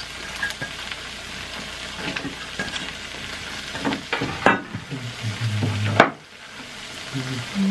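Melted cheese sizzling with a steady hiss on a plug-in heated cooking plate, broken by a few sharp clicks and crunches. The hiss drops off briefly just after a loud click about six seconds in.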